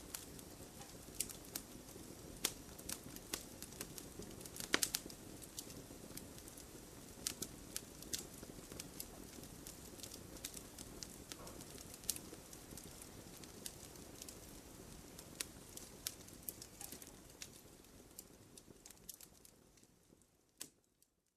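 Wood fire crackling in a fireplace: irregular sharp pops and snaps over a soft, steady rush of flame. The sound fades away to silence near the end.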